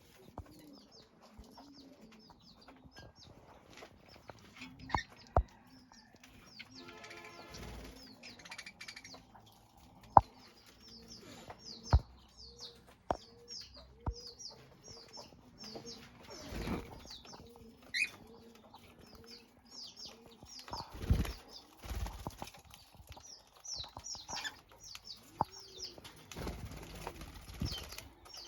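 Caged budgerigars and cockatiels chirping and chattering in short high calls, with wings flapping in several bursts. A low, repeated cooing runs underneath, with a few sharp taps.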